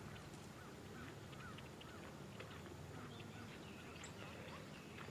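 Faint birds calling in the distance: many short chirps and quick up-and-down calls scattered throughout, over a low, steady outdoor background.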